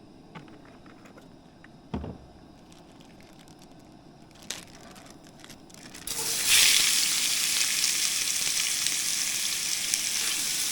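A few light knocks, then about six seconds in shrimp go into hot oil in a wok and start sizzling loudly.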